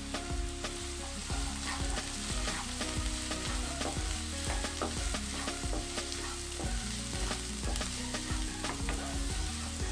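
Sliced shallots and green chillies sizzling in hot oil in a nonstick pan. They are being stirred with a wooden spatula, which makes frequent scraping clicks and taps against the pan over a steady frying hiss.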